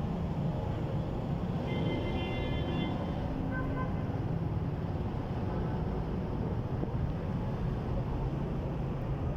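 Steady low rumble of outdoor background noise, like distant traffic. A brief high tone sounds about two seconds in.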